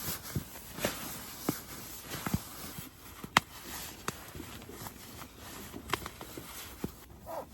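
A series of irregular light knocks and clicks, about a dozen, unevenly spaced, with a brief higher squeak near the end.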